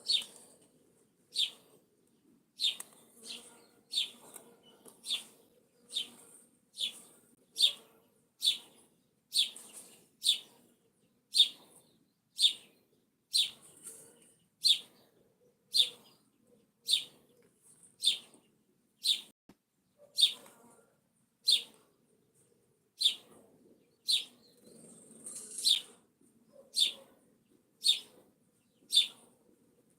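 A bird repeating one short, high chirp about once a second.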